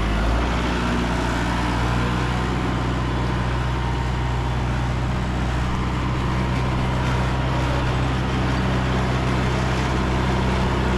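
A vehicle engine running steadily at a constant speed, a low even drone with no change in pitch.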